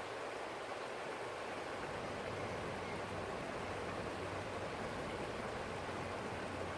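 Small forest stream flowing: a steady, even rush of running water.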